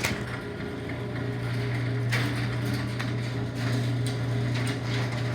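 LiftMaster 8165 chain-drive garage door opener running steadily as it closes the door, its motor giving a constant hum.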